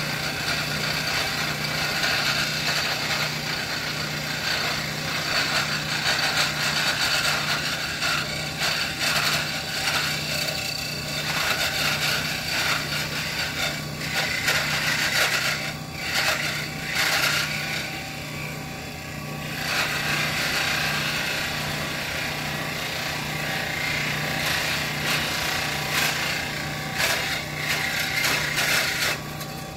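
Electric power tool running steadily while shaping a knife handle, its grinding noise swelling and easing as it bears on the material.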